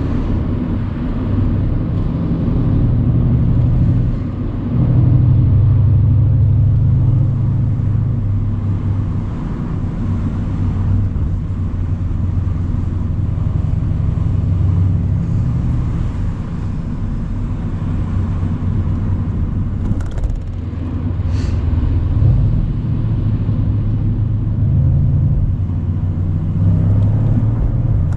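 Mercedes-AMG C63 cabriolet's 4.0-litre twin-turbo V8 driving along with the roof open. The engine note swells and eases with the throttle, with a stronger pull about five seconds in.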